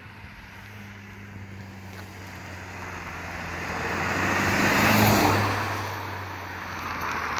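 A motor vehicle passing close by: a rush of engine and tyre noise swells to its loudest about five seconds in and then fades, over a steady low engine hum.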